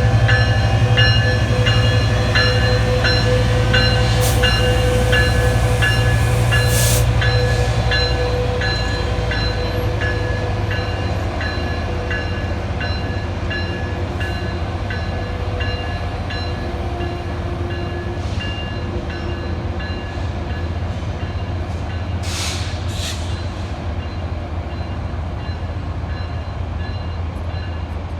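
A passenger train at a station platform: a steady low rumble from the train with its bell ringing about twice a second, the bell fading away over the last several seconds. A few short hissing bursts break in, twice early on and a pair near the end.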